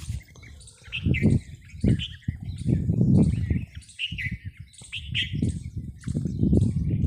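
Small birds chirping, with short high calls repeating about once or twice a second. Loud low rumbling bursts come and go beneath them several times.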